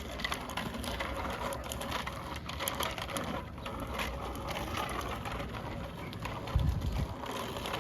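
Bicycle riding along: the rear freewheel ticks rapidly over steady tyre and wind noise, with a brief low rumble about six and a half seconds in.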